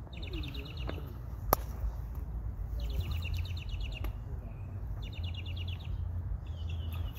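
A bird trilling repeatedly, each high rapid trill lasting about a second, over a low steady outdoor rumble. One sharp click sounds about a second and a half in.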